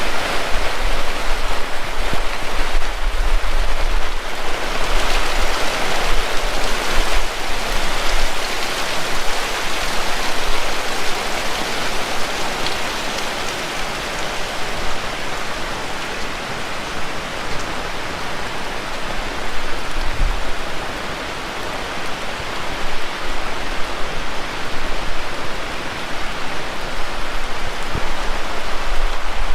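Heavy rain pouring steadily, with gusts of wind buffeting the microphone in the first few seconds.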